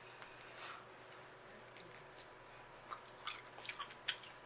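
Faint wet chewing and mouth sounds from eating saucy seafood boil, with scattered short sharp clicks and smacks, a few more of them in the second half.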